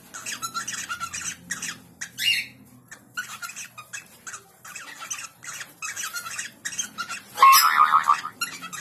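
Small birds chirping rapidly in short repeated calls, several a second, with a louder harsh squawk about seven and a half seconds in.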